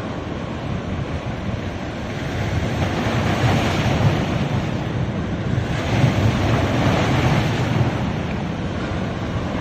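Ocean waves surging and breaking on a beach in a steady wash, with two waves swelling louder about three seconds in and again about six seconds in.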